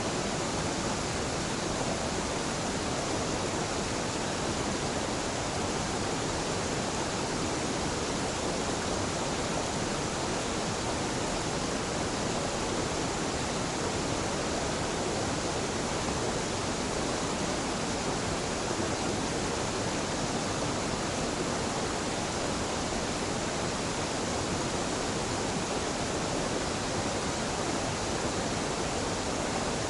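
Waterfall pouring into a mountain river: a steady, unbroken rush of falling water.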